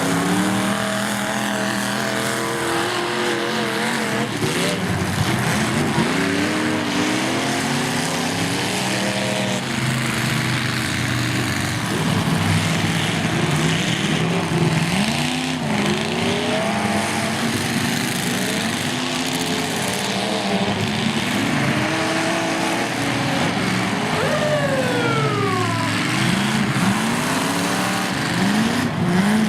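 Several demolition derby cars' engines running and revving together, their pitches repeatedly rising and falling as they accelerate and back off.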